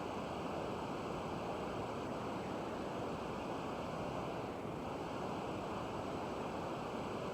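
Steady, even rushing noise with no breaks, plus a faint thin high whine.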